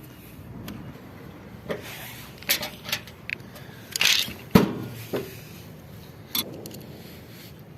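A string of sharp clicks and metallic knocks from tools and metal parts being handled during work on a washing machine. The loudest is a hard knock about four and a half seconds in.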